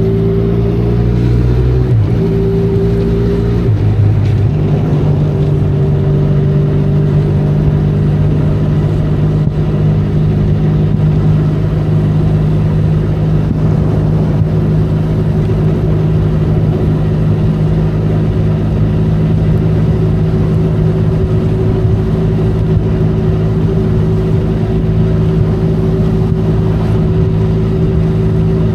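Benelli Leoncino 500's 500 cc parallel-twin engine pulling the motorcycle along, with the pitch rising and then dropping sharply twice in the first four seconds as it shifts up through the gears, then running steadily at cruising speed. A constant hiss of rain and road noise sits under the engine.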